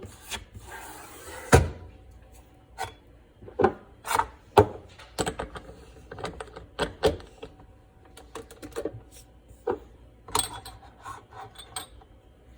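Portafilter being fitted and twisted into a Brewsly espresso machine's group head: a scrape and a loud knock about a second and a half in, then a string of sharp clicks and knocks from handling the machine.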